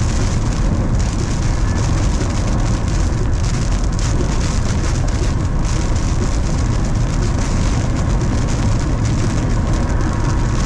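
Heavy rain from a severe thunderstorm falling hard, a steady loud rush with a deep rumble underneath.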